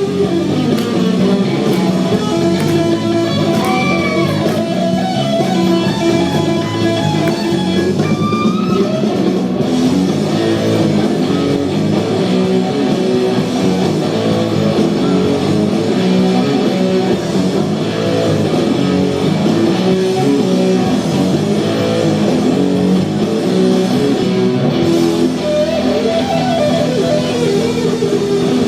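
Guitar music with a bass line, played steadily and loudly, with a few bent notes.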